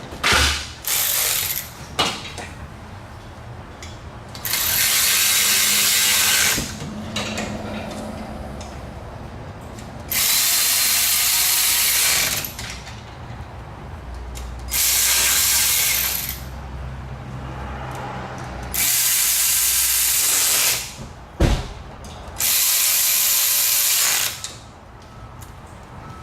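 A power tool run in five bursts of about two seconds each, with metallic clicks and clanks between the bursts.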